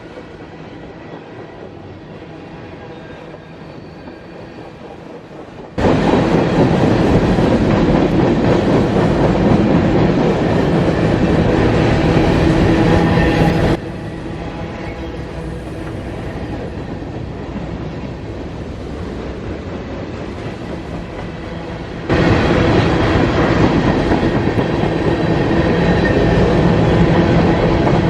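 CSX mixed freight train rolling past, its cars' wheels clicking over the rail joints. The level jumps abruptly several times: quieter for the first six seconds or so, much louder from then on, dropping back partway after about 14 s and rising again after about 22 s.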